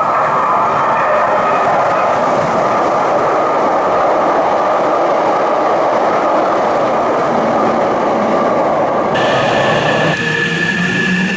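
Hankyu Railway electric train running along the elevated track, a dense steady rumble of wheels and running gear. About nine seconds in the sound changes: the rumble drops away and steady high tones come in.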